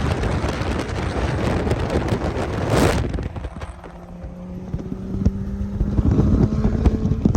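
Car driving with loud engine, road and wind noise that drops off suddenly about three seconds in. A low engine hum then rises slowly in pitch as the car picks up speed, and the noise builds again near the end.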